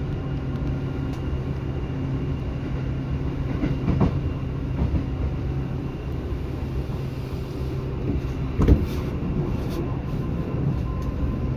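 Seibu 2000 series electric train running, heard from inside the car: a steady rumble with a low motor hum, and two short knocks of wheels over rail joints, about four seconds in and again near nine seconds.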